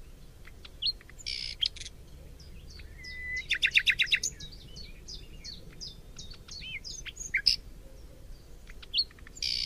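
Small birds chirping and whistling in many short calls, with a quick run of about eight notes a little under four seconds in.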